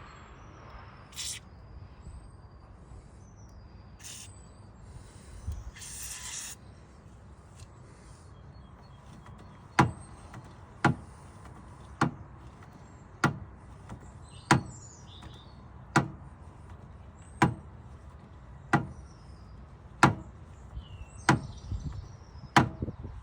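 Birds chirping faintly, then from about ten seconds in a regular series of about eleven sharp knocks, roughly one every second and a quarter.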